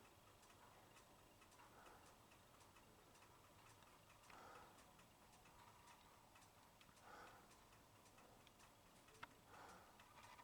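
Near silence with a faint, even ticking throughout.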